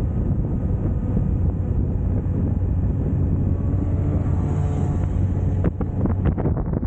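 Suzuki GSX1250FA motorcycle's inline-four engine running steadily at cruising speed, with wind rushing over the microphone. Near the end the steady engine tone breaks off into choppy wind buffeting.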